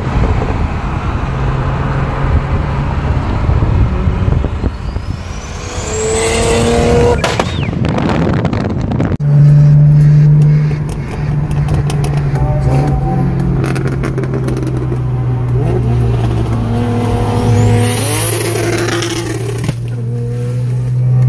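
Car engine running hard, a steady drone that shifts in pitch and surges louder about nine seconds in. A thin high whine rises in pitch about five seconds in and again near the end.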